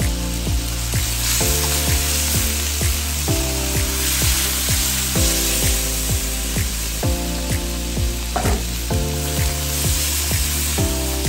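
Chicken pieces sizzling in hot oil in a stainless steel wok, with a slotted spatula stirring and lifting the pieces. Background music with a steady beat plays throughout.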